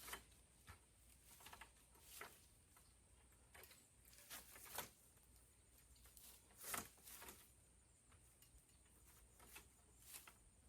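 A ladder being shifted and steadied: faint, scattered knocks and rustles, the loudest about two-thirds of the way through.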